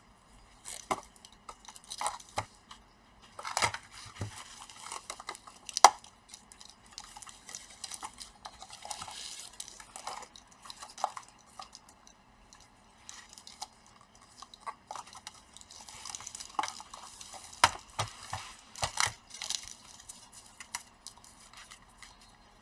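Scattered plastic clicks, taps and rustling as a replacement laptop keyboard is handled and test-fitted into the laptop's plastic upper casing, with one sharper knock about six seconds in.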